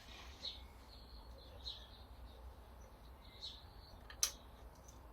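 Faint bird chirps, a few short calls spread out, with a single sharp click about four seconds in.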